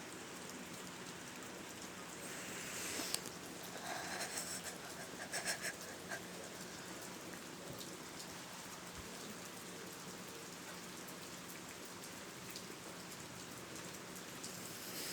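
A steady, even hiss, with a short cluster of rustles and clicks between about three and six seconds in.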